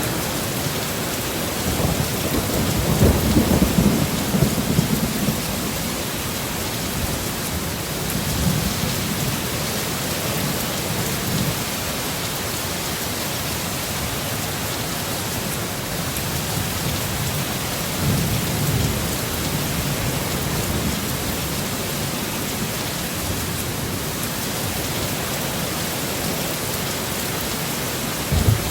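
Heavy steady rain of a storm, with low rolls of thunder swelling up several times, the loudest a few seconds in.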